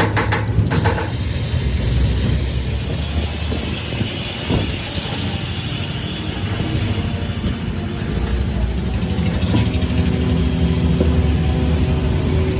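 A motor running steadily with a low rumble, a few sharp clicks at the start, and a steady hum that joins in about nine seconds in.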